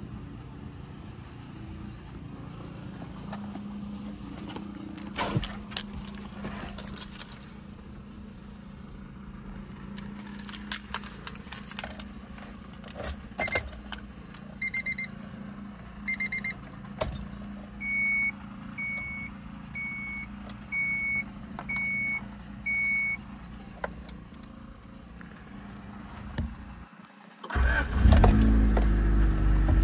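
Keys jangling on a ring, then a dashboard warning chime beeping six times, about once a second. Near the end, the 1990 Honda CRX Si's 1.6-litre four-cylinder engine is started from cold and catches, settling into a loud, steady idle.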